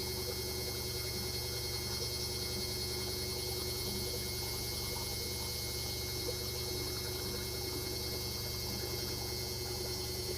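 LG WD-80160NUP washing machine running with a steady hum and several steady whining tones that do not change.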